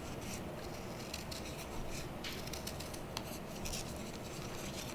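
Scissors cutting through paper: faint, scattered short snips and paper rustling.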